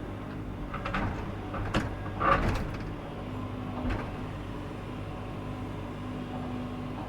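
Excavator engine running steadily while the bucket scrapes and knocks against rock several times in the first four seconds; the digging is hitting rock.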